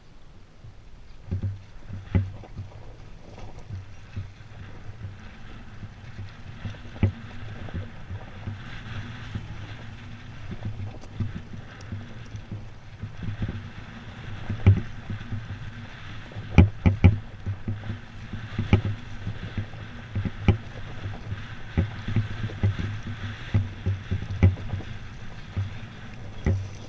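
Dirt bike engine running at low, steady revs, with frequent sharp knocks and thumps that come thicker in the second half.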